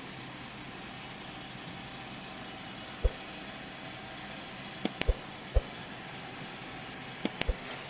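CNC milling machine running with a steady mechanical hum, broken by several short, sharp knocks: one about three seconds in, a quick cluster around five seconds in, and another cluster near the end.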